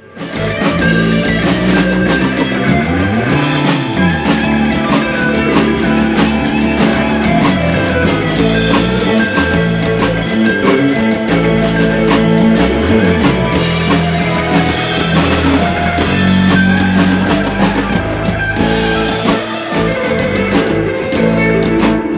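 Rock band playing an instrumental passage on guitar, bass and drum kit, starting abruptly and keeping a steady, full sound with a moving bass line; no voice comes in yet.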